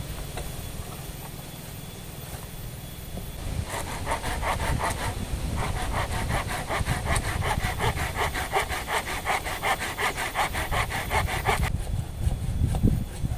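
A hand saw cutting wood in quick, even back-and-forth strokes, starting about four seconds in and stopping shortly before the end, over a low rumble of wind.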